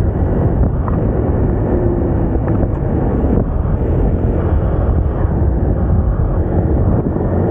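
Moda Moca 110 scooter under way: steady engine, road and wind noise, with wind buffeting the microphone.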